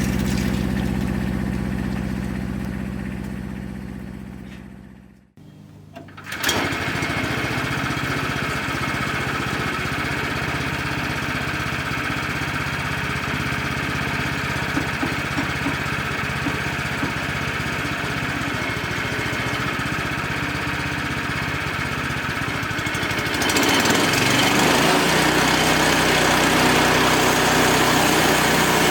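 Wood-Mizer LX25 sawmill's gas engine running steadily, fading out about five seconds in; after a short break it runs again, rougher and noisier, and gets louder about 23 seconds in.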